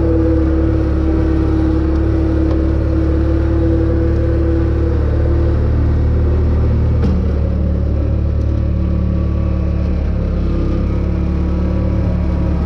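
Bobcat skid-steer loader's engine running steadily under work, with a higher whine over it that fades about five seconds in and a shift in the engine note about seven seconds in.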